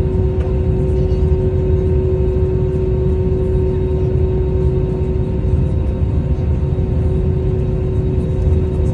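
Airbus A320-271N with Pratt & Whitney PW1100G geared turbofan engines, running steadily under power during departure: a constant deep rumble with a steady hum over it, unchanging throughout.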